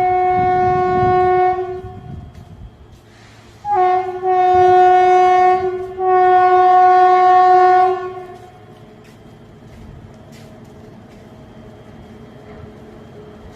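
Indian Railways WAG-9HC electric locomotive's air horn sounding three loud blasts, each about two seconds long and each a single steady pitch. After the blasts the quieter, steady running sound of the train follows, with a few faint clicks.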